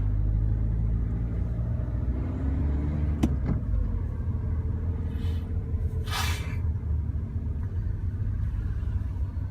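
Low, steady rumble of a car engine running, with a sharp click about three seconds in and a brief hiss about six seconds in.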